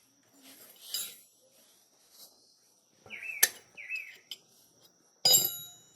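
Sharp metal clanks from tractor repair work, the loudest about five seconds in and ringing briefly, with two short bird chirps in between and a faint, steady high insect drone behind.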